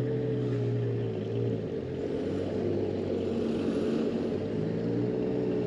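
A large engine running steadily at low revs, a low hum whose pitch drifts slightly up and down.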